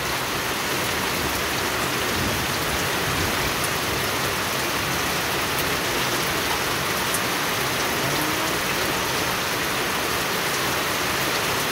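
Rain falling steadily on a small pond's water and on wet stone paving, an even, unbroken hiss.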